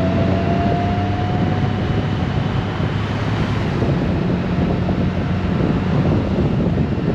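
Honda Gold Wing motorcycle under way: a steady engine hum under heavy wind noise on the microphone. A faint whine slowly rises in pitch over the first couple of seconds.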